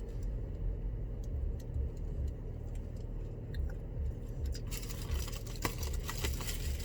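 A person chewing a crunchy tater tot close to the microphone: regular low jaw thumps about three times a second with small crunches and clicks, the crunching getting fuller about two-thirds of the way through.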